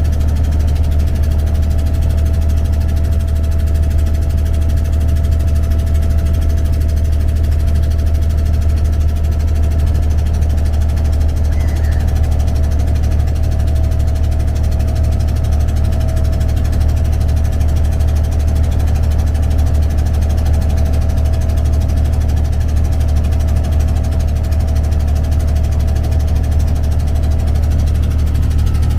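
Abra ferry boat's engine running steadily: a loud, deep, even hum with a faint steady higher tone above it.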